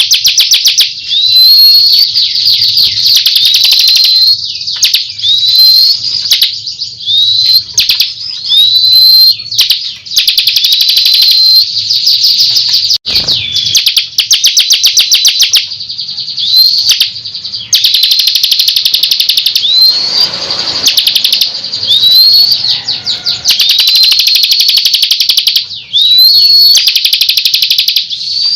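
Bar-winged prinia (ciblek) singing loudly and without pause: long, rapid trills of fast repeated high notes, broken every second or two by short up-slurred whistles.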